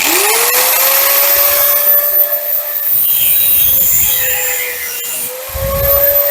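Electric power tool cutting metal pieces: the motor spins up at the start with a quickly rising whine, then runs steadily with a cutting noise, its pitch dipping slightly under load now and then.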